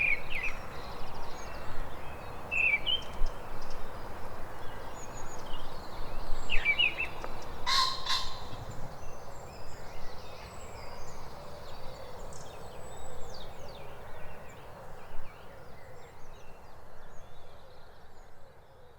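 Mistle thrush singing: short, separate fluty whistled phrases with pauses between them, over a steady hiss of outdoor background noise. A single sharp click comes about eight seconds in.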